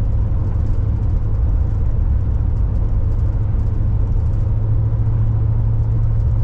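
Steady engine and road noise heard inside a moving car's cabin: a constant low hum with tyre rumble.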